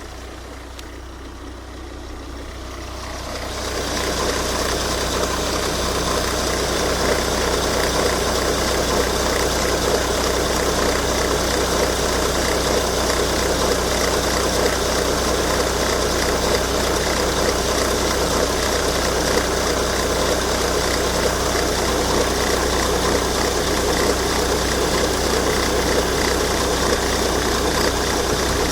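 Volvo V70 D5 five-cylinder turbodiesel idling steadily, with a strange resonating noise from the auxiliary belt drive. The sound grows louder over the first few seconds, then holds steady.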